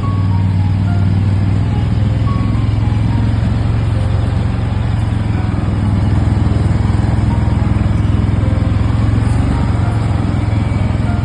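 A motor vehicle engine running steadily at a constant low pitch, with no change in speed.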